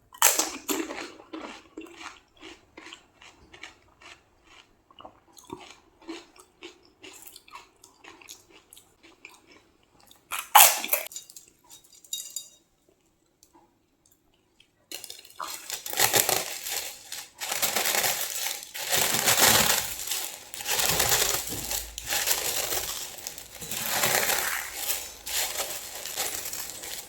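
Close-up eating of crisp pani puri: a run of short crunches and chewing for about ten seconds, one loud crunch about ten seconds in, then after a short pause a louder, denser stretch of crunching and crinkling.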